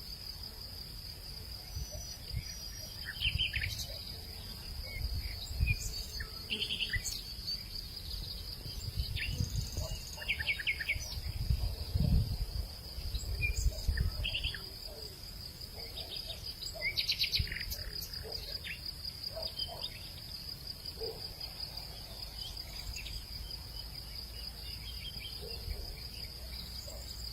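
Hillside outdoor ambience: a steady, unbroken high insect trill, with short bird chirps scattered through it. Low gusts of wind rumble on the microphone and swell several times.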